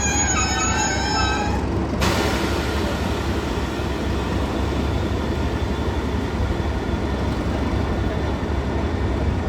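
Train wheels squealing against the rails as several high, wavering tones for about the first two seconds. The squeal stops abruptly and gives way to the train's steady rumble, with a low drone underneath throughout.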